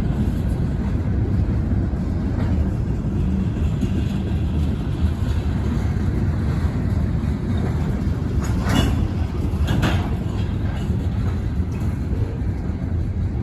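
Wheeling & Lake Erie freight train rolling by with a steady low rumble, and two sharp clicks a little past the middle.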